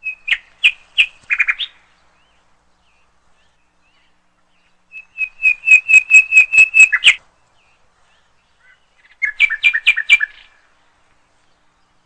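Bird chirping in three quick runs of rapid, high chirps, the middle run the longest and loudest.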